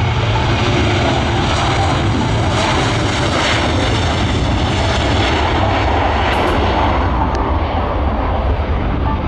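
A fixed-wing aircraft's engines running loud and steady as it passes close by, with deep rumble and hiss; the high part of the sound thins out from about six seconds in as the aircraft moves away.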